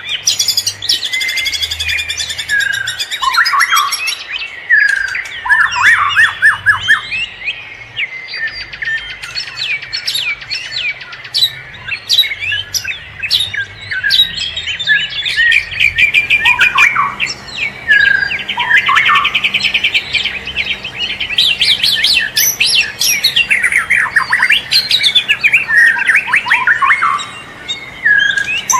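Several wild forest birds singing and calling at once, a dense chorus of overlapping chirps, quick rapid-note trills and short harsher squawks.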